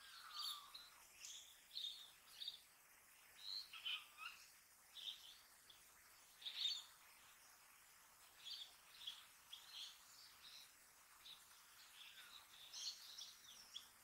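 Birds calling and chirping: many short, high chirps scattered throughout, with a couple of lower calls, one falling in pitch near the start and another about four seconds in. Faint overall.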